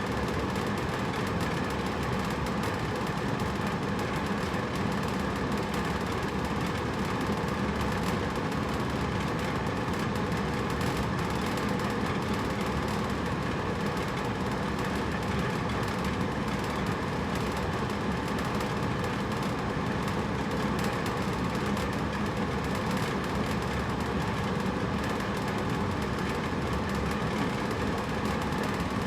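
Hotel room air conditioner running with a steady, even whoosh of air and a low mechanical hum.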